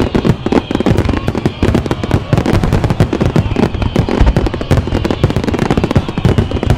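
Fireworks going off in a dense, continuous barrage of bangs and crackles, many in each second.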